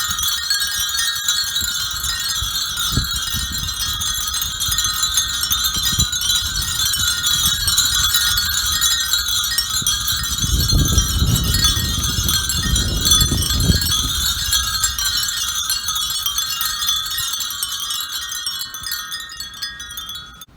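Many Japanese furin wind chimes ringing together in the breeze, a dense continuous tinkling, with a low rumble swelling in the middle; the ringing fades off at the end.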